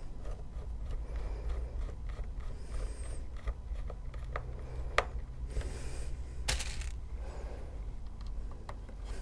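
Model railway track being screwed down with small screws: scattered light clicks and scrapes of screws and tools being handled, one sharp click about five seconds in and a brief rasp shortly after, over a steady low hum.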